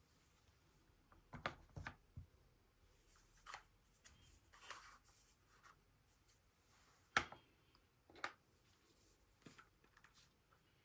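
Light household handling sounds: a few soft knocks and clicks, with quiet rustling or brushing between them and one sharper click about two thirds of the way through.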